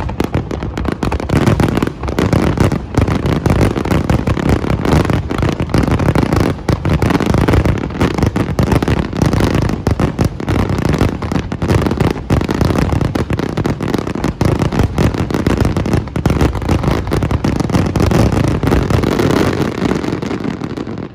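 Fireworks display: a dense barrage of aerial shells bursting in rapid succession, the bangs and crackle overlapping without a break, until it stops abruptly at the end.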